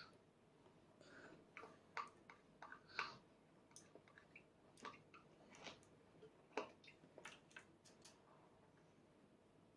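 Faint, irregular wet mouth clicks and smacks of a toddler chewing food.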